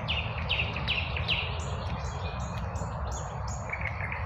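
Songbirds singing: a quick series of short, high, down-slurred notes, about three a second, with other chirps joining near the end, over a steady low rumble.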